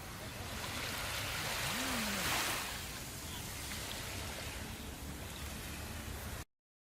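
Ocean waves washing in, one wave swelling and fading about two seconds in. The sound cuts out abruptly to dead silence near the end.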